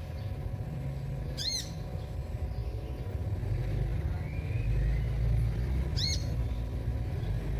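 Sunbird ('kolibri') giving two short, arched chirps about four and a half seconds apart, over a steady low rumble.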